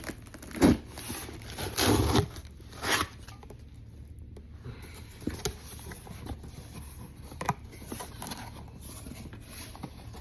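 Cardboard box and snack packaging being opened and handled: a few short tearing, rustling bursts in the first three seconds, then quieter scattered clicks and rustles.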